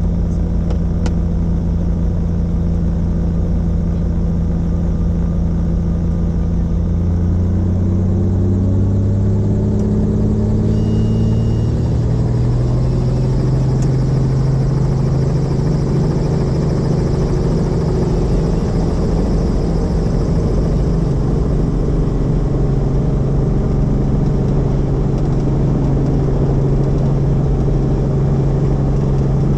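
Helicopter engine and rotor running steadily. About seven seconds in the pitch rises, then settles higher a few seconds later.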